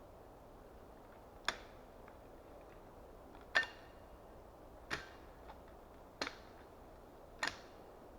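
Axe chopping wood: five sharp chops with a short metallic ring, about one every second and a half.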